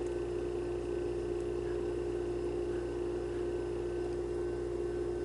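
Steady indoor hum with one held tone and no other events: room tone.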